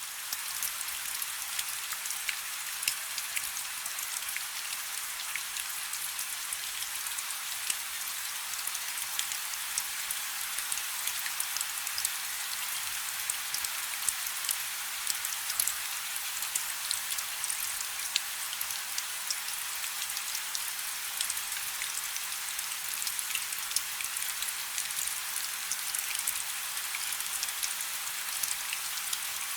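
Light rain falling steadily, with a constant hiss and many fine, sharp drop ticks scattered through it, and little low rumble.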